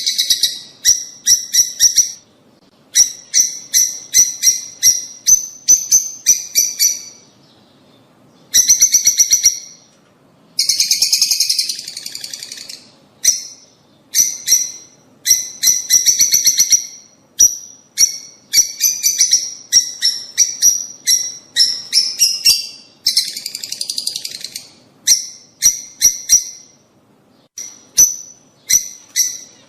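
Lovebirds chattering: loud, high-pitched chirps fired in rapid runs of one to two seconds, broken by short pauses.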